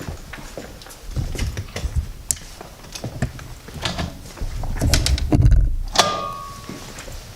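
Footsteps and scattered knocks in an empty, echoing building, with a heavy rumbling thud about five seconds in, a sharp click near six seconds, and a short squeak right after it.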